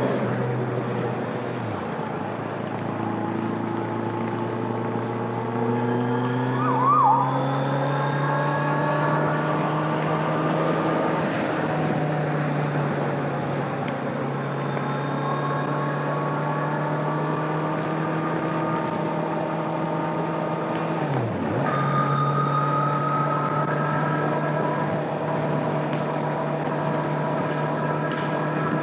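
Stock exhaust of a 2025 Kawasaki Z900's inline-four engine riding on the highway. The engine note climbs steadily for several seconds from about three seconds in, then holds. It dips briefly about two seconds in and again about 21 seconds in, as in a gear change.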